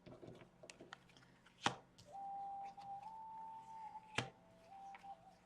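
Tarot cards being shuffled and handled, with small riffling clicks and two sharp card snaps, about two seconds in and again near four seconds. A faint held musical tone that steps slightly in pitch runs underneath in the middle.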